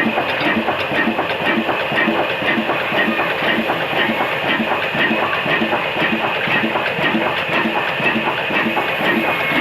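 Diesel engine coupled to a sawmill, running steadily with an even, rhythmic beat.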